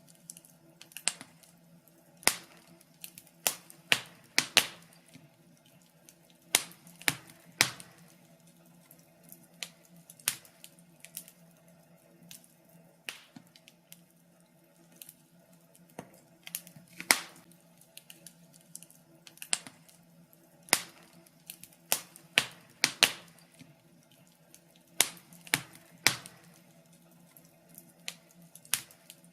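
Wood fire crackling in a fireplace: sharp pops and snaps at irregular intervals, sometimes several in quick succession, over a faint steady hum.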